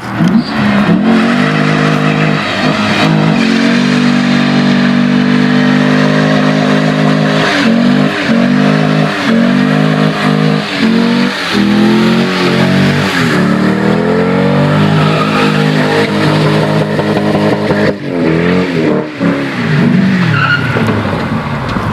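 V8 engine held at high, steady revs during a burnout, the revs dipping and climbing back several times, with tyres squealing.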